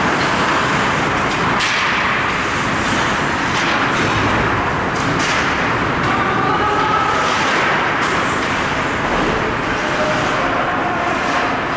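Ice hockey rink noise during play: a steady, loud rush of arena and crowd sound with sharp clacks now and then, and faint raised voices about six seconds in and near the end.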